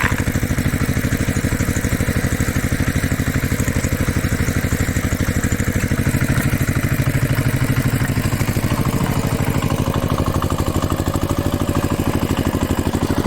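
A small engine running steadily at an even, fast beat. About two-thirds of the way in, a faint steady whine joins it.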